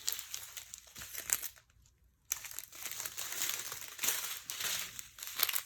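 Small plastic bags of diamond-painting drills crinkling as they are handled, with a short pause about two seconds in.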